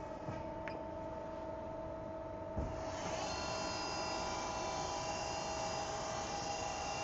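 CNC lathe running in a program dry run, with a steady electrical hum and a few light clicks. About two and a half seconds in there is a single knock, after which a higher multi-tone motor whine starts and runs on steadily.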